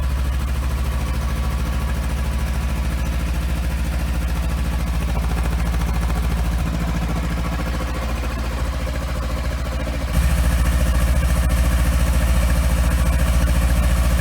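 A 2017 Kawasaki Versys X300's 296 cc parallel-twin engine idling steadily through its stock muffler. About ten seconds in, the sound suddenly gets louder while its pitch stays the same.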